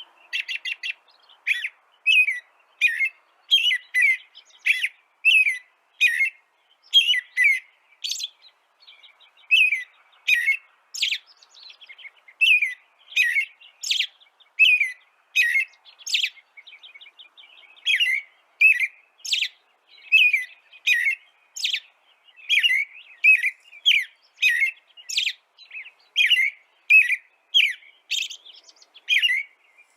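A small songbird chirping over and over, about two short high chirps a second, with a few brief pauses.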